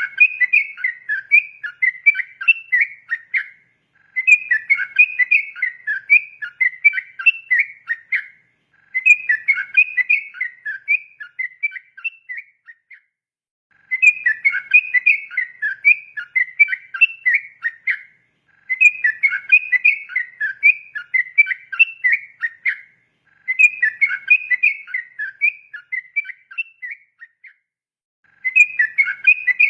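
Sooty-headed bulbul (trucukan) singing in rapid, bubbly warbling phrases of about four seconds each, with pauses of about a second between them, seven phrases in all.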